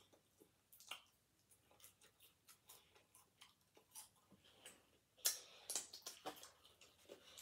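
A person chewing food close to the microphone: soft wet mouth clicks and lip smacks in an uneven run, busier and louder about five seconds in.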